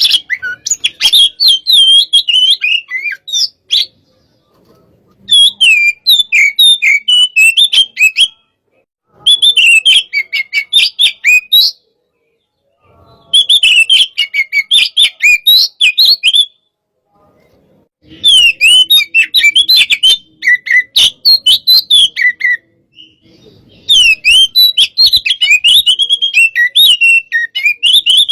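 Oriental magpie-robin (kacer) singing loud, fast phrases of varied whistles and chirps, six bursts of song each a few seconds long with short pauses between them.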